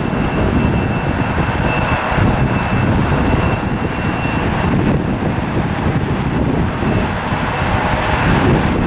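Turbofan engines of a Delta Embraer 175 regional jet, a steady jet rumble with a thin high whine held throughout, mixed with wind buffeting the microphone.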